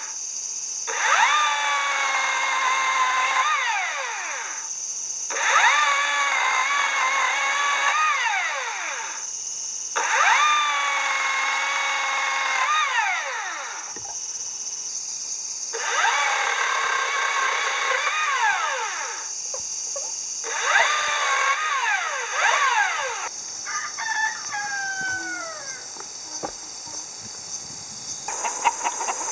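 A handheld power drill runs in five bursts of about three seconds each. Each burst spins up, holds a steady whine, then winds down with a falling pitch when the trigger is released.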